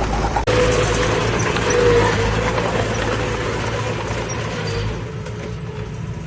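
Heavy earthmoving machine's diesel engine running steadily with a whine over it, and a sharp click about half a second in.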